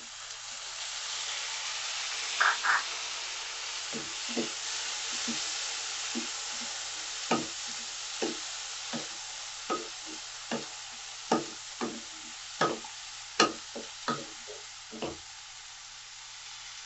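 Vegetables sizzling in hot oil in a kadhai as chopped tomatoes are tipped in, then stirred with a wooden spatula that knocks and scrapes against the pan at irregular intervals.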